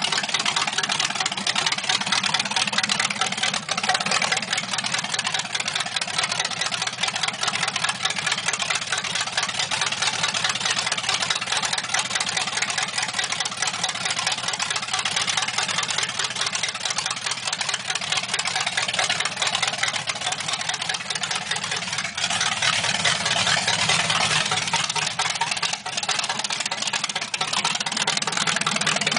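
283 cubic-inch small-block Chevrolet V8 idling steadily.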